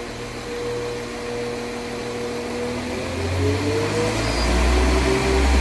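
Class 197 diesel multiple unit pulling away: a steady hum at first, then about three seconds in the engine note rises and a low rumble builds and gets louder as it accelerates.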